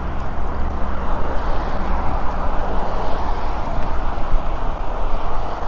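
Steady motorway traffic noise with a constant low rumble underneath.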